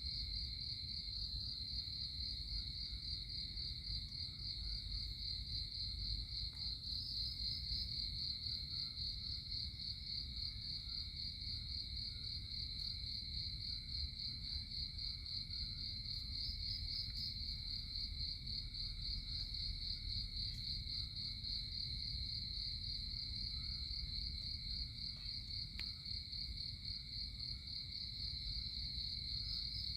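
Insects chirring in a steady, high, unbroken trill over a low background rumble.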